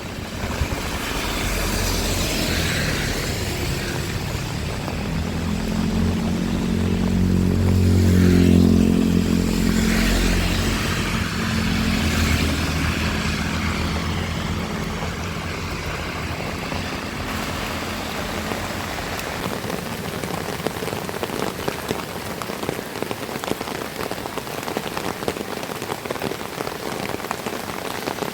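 Heavy rain falling steadily. A motor vehicle's engine passes through it, growing louder to a peak about eight seconds in and fading out a few seconds later.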